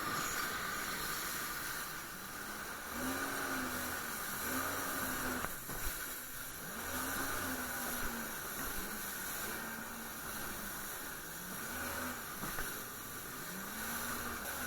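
Jet ski engine running at speed. Its pitch swells and dips every second or two as the hull skips over waves, under a steady rush of water spray and wind.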